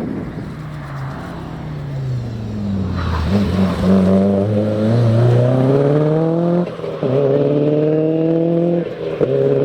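Four-wheel-drive rally car's engine: it comes off the throttle with the pitch falling, then accelerates hard with the revs climbing, and changes up twice in the second half.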